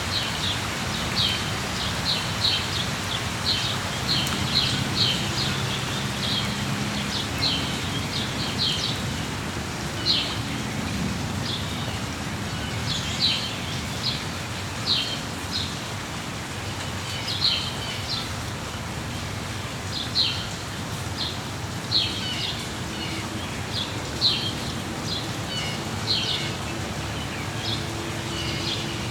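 Steady rainfall with birds chirping throughout: many short, high chirps repeated every second or so over the hiss of the rain.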